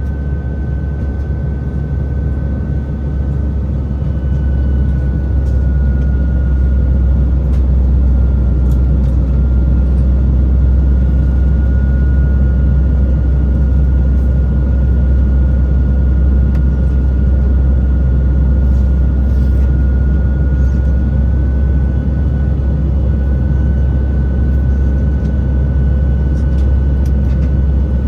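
Airbus A320's cabin noise in flight: the steady low roar of its IAE V2500 engines and the airflow, with a thin steady whine held high above it. It grows slightly louder over the first few seconds, then holds steady.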